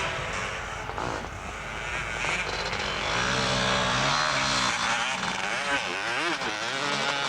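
Motocross motorcycle engines running, steady for a while, then revving, with the pitch rising and falling repeatedly in the later part.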